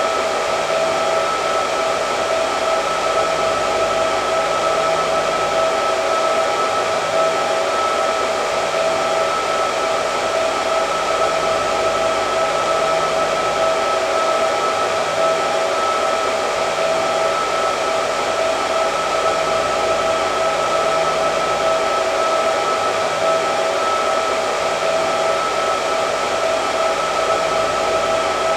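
Hair dryer running steadily, a constant rush of blown air with a steady whine over it.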